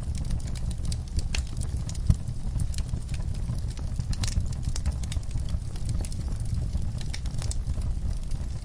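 Wood fire in a fireplace crackling, with irregular small pops and snaps over a steady low rumble; one louder pop about two seconds in.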